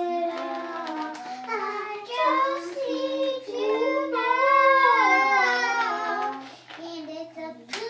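Children singing a song, with long held notes that slide up and down; a sharp click sounds near the end.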